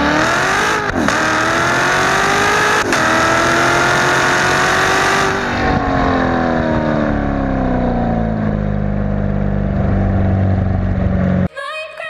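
C7 Corvette Z06's supercharged 6.2-litre LT4 V8 with an X-pipe exhaust, heard from the cabin, accelerating hard with revs climbing through two quick upshifts about one and three seconds in. Revs then fall steadily for several seconds as the car lets off and slows. Electronic music cuts in near the end.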